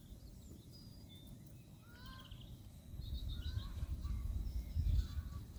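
Birds calling sparsely, short chirps and rising notes, over faint outdoor ambience. About halfway through, a low rumble comes up underneath.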